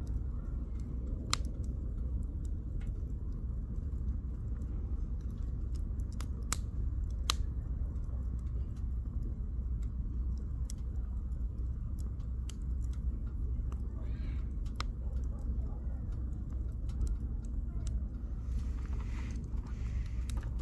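Firewood burning in a campfire: scattered sharp pops and crackles over a steady low rumble.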